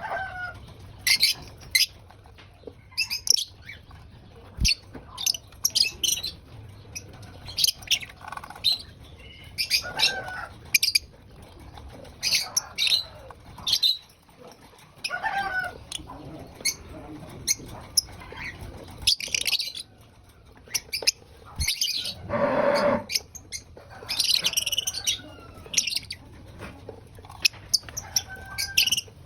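Pet lovebirds chirping, short high calls coming irregularly, with one louder, harsher call of about a second roughly two-thirds of the way through.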